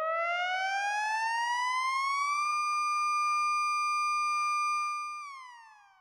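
Analog Eurorack oscillator (the Little Monster VCO) with its pitch swept by the Anvilope envelope set to a long attack. The bright, buzzy tone glides slowly upward for about two and a half seconds and holds steady. About five seconds in, it falls in pitch and fades away as the envelope releases.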